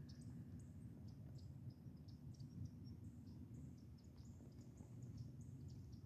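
Faint, high-pitched chirps of small birds, many short calls repeating over a low steady rumble.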